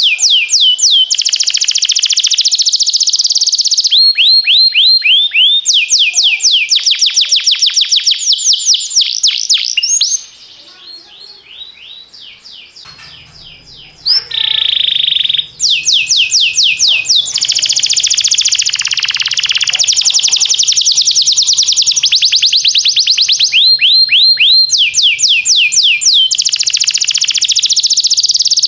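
Domestic canary singing: loud, fast trills of rapidly repeated high notes in long phrases. About ten seconds in the song drops to a quiet stretch, then a held high whistle-like note sounds before the rapid trills resume.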